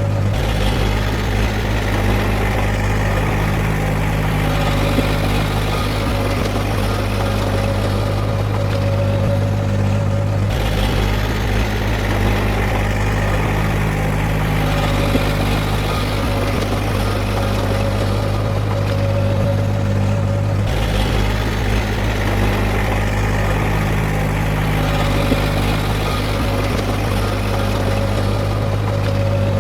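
Heavy earthmoving machine's engine running steadily, a continuous low hum with no revving. The same stretch of engine sound repeats about every ten seconds.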